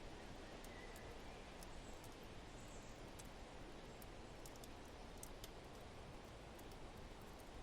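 Quiet fireplace ambience: a wood fire crackling with sparse, irregular small pops over a steady low rush of wind.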